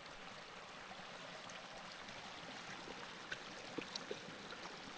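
Faint, steady running of a small stream, with a few light clicks about three to four seconds in.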